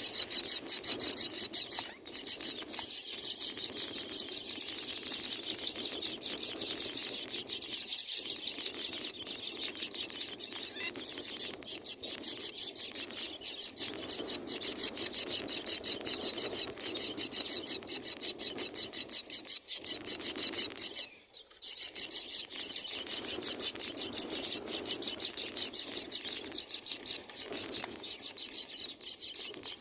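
Common myna nestlings begging, a continuous fast, harsh rasping chatter that breaks off briefly about two-thirds of the way through.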